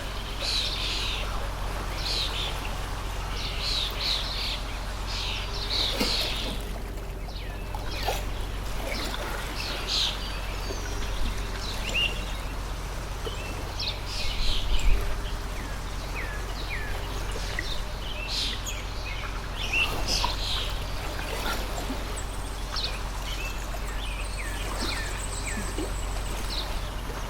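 Small birds chirping in many short calls over the steady trickle of a water stream, with a low steady hum underneath and a brief low thump about halfway through.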